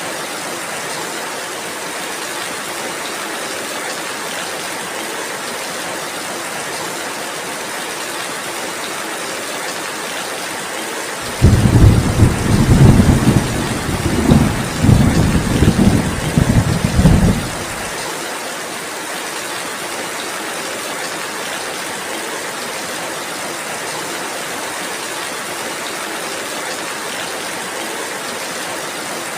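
Steady rainfall hissing throughout. About eleven seconds in, a loud low rumble of thunder rolls in with several swells for about six seconds, well above the rain, then stops abruptly.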